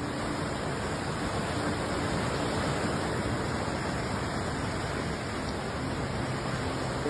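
Steady rushing noise of water, an even hiss with no distinct strokes.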